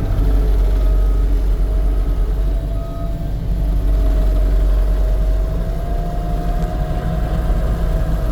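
Case SV280B skid steer's diesel engine running steadily, with a steady whine that rises slightly in pitch about two thirds of the way through.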